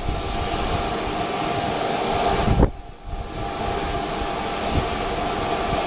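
Steady aircraft engine noise. It drops away sharply for about half a second, a little under three seconds in.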